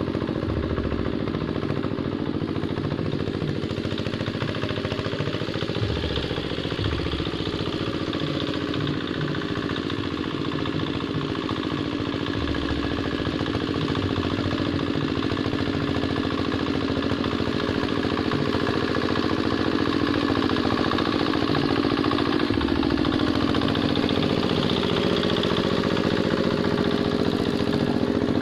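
Single-cylinder diesel engine of a Quick Capung Metal hand tractor running steadily, a constant low chugging with some clatter. The tractor is ploughing a wet, sticky paddy field.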